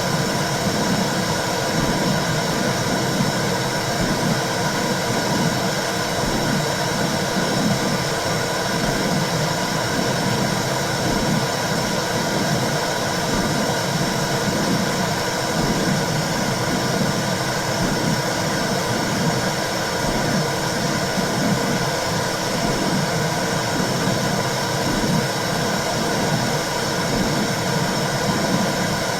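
Intrauterine 'womb sound' for soothing babies: a steady whooshing noise with a low, rhythmic pulse running through it.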